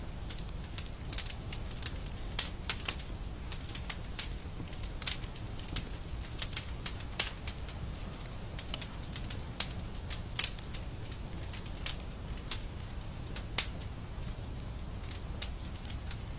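Fire in a fireplace crackling, with irregular sharp pops several times a second over a steady low rumble.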